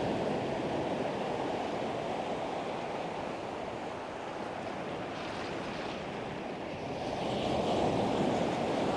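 Ocean surf breaking and washing up the beach, a steady rush that eases through the middle and swells louder again near the end.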